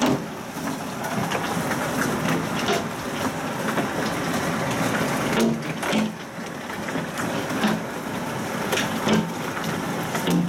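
Heavy rain and hail: a steady hiss of downpour with irregular sharp knocks of hailstones striking hard surfaces.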